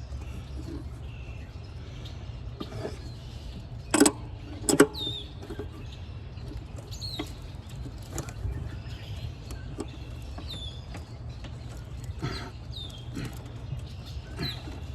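Two sharp knocks of hand tools on metal, a little under a second apart, while working at a seized nut on the EGR valve of a 2001 Ford F-150. Small birds chirp on and off over a steady low rumble.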